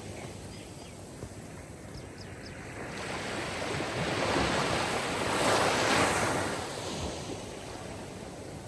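Sea waves washing on the shore: a steady wash of surf, with one wave swelling louder about halfway through and then falling back.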